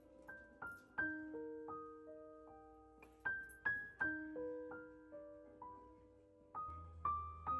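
Background music: slow, gentle solo piano, single notes struck one after another and left to ring.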